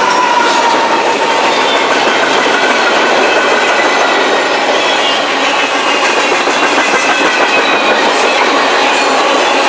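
A train's cars rolling past on the track: a steady, loud rush of steel wheels on rail with clickety-clack over the rail joints, and faint high-pitched ringing tones above it.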